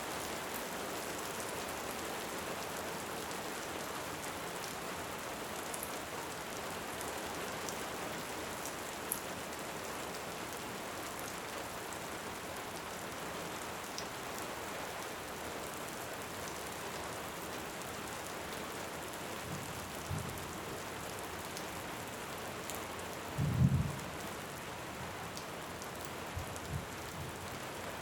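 Steady rain hissing throughout, with occasional faint crackles from a wood fire. Distant thunder rumbles a few times in the last third, the loudest a short low roll near the end.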